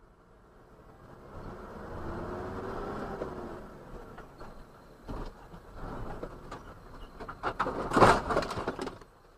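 Vehicle engine running and pulling up through the gears with a rising whine, picked up by a dash camera's microphone. From about five seconds in come knocks and rattles, the loudest a sharp bang about eight seconds in.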